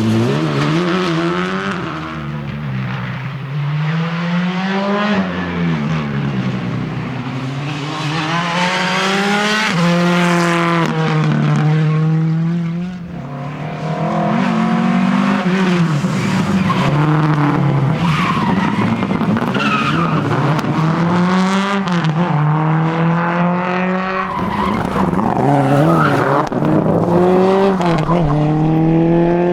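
Rally cars driven flat out on a special stage, engines revving hard and falling back over and over as they shift and brake for corners, with tyre squeal and skidding.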